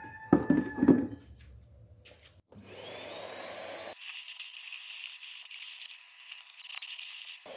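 A few handling knocks, then a small vacuum cleaner switches on about two and a half seconds in, its motor whine rising as it spins up, and runs steadily while it sucks dirt out of the car's air filter housing.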